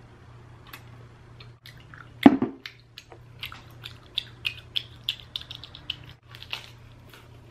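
Close-up eating sounds: a single dull knock about two seconds in, as the boba tea cup is set down on the table, then a run of short wet clicks of chewing. A low steady hum lies beneath.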